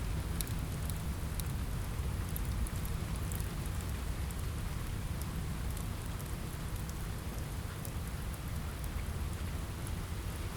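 Steady rain on a window with a low rumble underneath, and scattered sharp pops of a crackling wood fire, more of them in the first few seconds.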